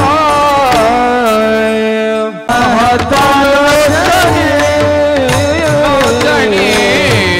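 Devotional kirtan singing: a solo voice carries a drawn-out, ornamented melodic line with held notes, accompanied by tabla and mridang. The sound breaks off briefly about two and a half seconds in, then the singing resumes.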